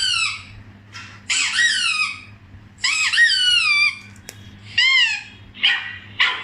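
A series of four high-pitched, animal-like calls played as a test sound for a dog. Each call slides in pitch, some falling and some rising then falling, and they come about a second or more apart, with short scratchy bursts between them.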